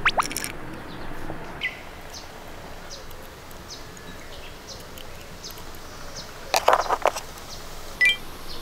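Small birds chirping, with short clusters of clicks and clatter just after the start and, louder, about six and a half seconds in. The clicks are die-cast minicars being moved and run on a plastic playset.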